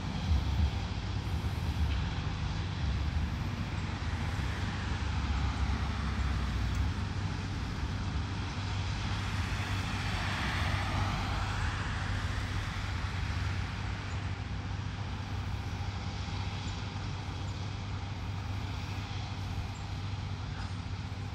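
Steady outdoor mechanical hum under a wide hiss, with a few low thumps of wind on the microphone at the start; about halfway through, the noise swells and fades as something passes by.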